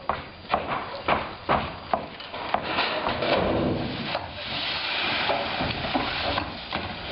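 Demolition work on a house's wooden structure: a run of sharp knocks, about two a second, then a few seconds of continuous rough, clattering noise with scattered knocks in it.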